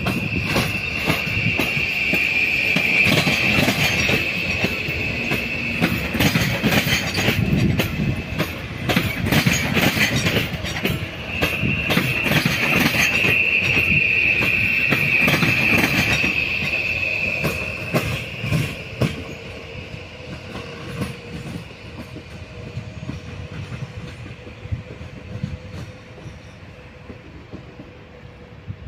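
Train rolling through the station with its wheels squealing in a steady high screech for two long stretches, over rapid clicks and knocks of wheels crossing rail joints and points. The noise dies away over the last third, leaving a faint steady hum.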